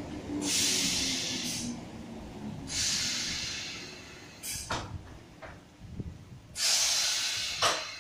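Greater Anglia electric multiple unit moving through the station with a low rumble, broken by three loud bursts of hissing, each about a second long, and a few short clicks between the second and third.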